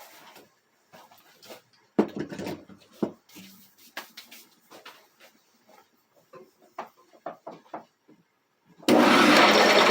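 Scattered light knocks and clatter, then about nine seconds in an antique grain roller mill starts up abruptly and runs with a loud, steady mechanical rattle.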